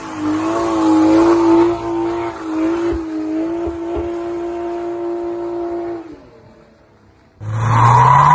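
A BMW 3 Series sedan's engine held at high, steady revs with its pitch wavering slightly as the rear wheels spin through smoky donuts. About six seconds in the sound cuts off to a quiet lull, and just over a second later a second BMW's engine revs up sharply, its pitch rising, as a burnout begins.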